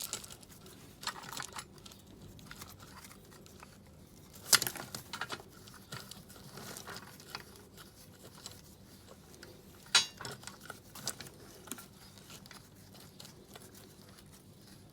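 Coil spring compressors being wound in by hand with a 21mm spanner to squash a front coil spring: faint scraping and handling with scattered sharp metal clicks, the two loudest about four and a half and ten seconds in.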